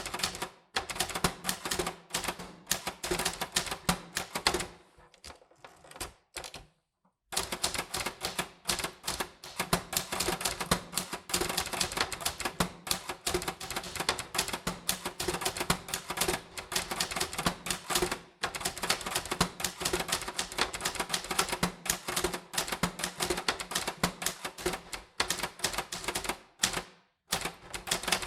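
Typewriter keys striking in rapid runs of many strokes a second, with a pause of about two seconds about five seconds in and a brief one near the end.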